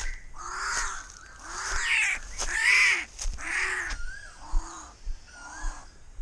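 A bird giving harsh, crow-like cawing calls over and over, about one a second, loud at first and fainter in the second half.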